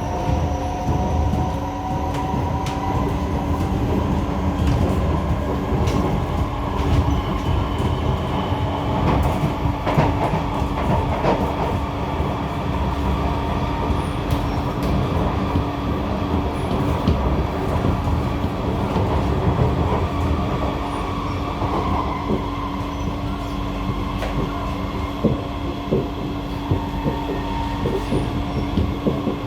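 SMRT C151A metro train running between stations, heard from inside the car: wheels rumbling and clicking on the rail joints, with a steady whining tone throughout and fainter higher whines that shift in pitch early on. This is the screeching from cars 3515 and 1515 that the uploader points out.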